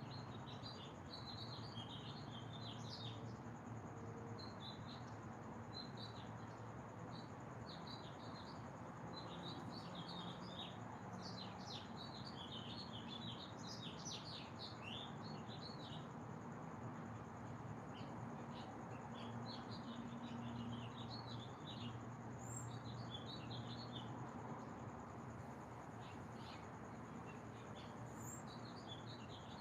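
Small birds chirping and twittering, many short high calls in quick runs throughout, over a steady background hiss and a thin steady high tone.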